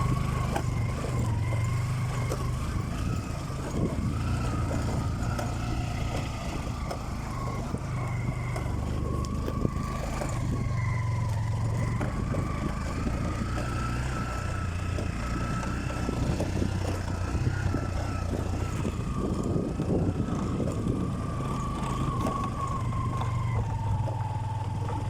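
Motorcycle engine running steadily at low speed, with a thin, slightly wavering whine above the low engine hum.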